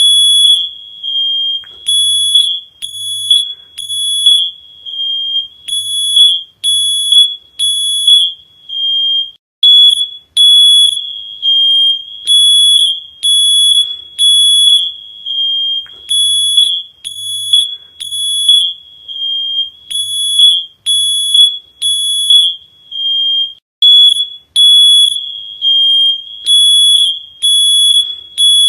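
High-pitched electronic alarm beeping at one steady pitch, in repeating groups of about three beeps with a short pause between groups.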